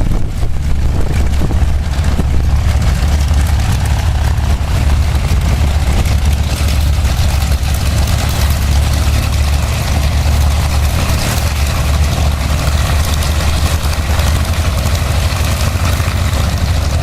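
Piston propeller aircraft engine running in a steady, loud low drone with no clear rise or fall.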